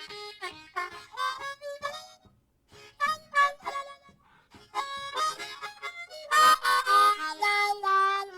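Blues harmonica played in short phrases of single notes and chords, with a brief pause about two seconds in, louder chords near the end, and a long held note to finish.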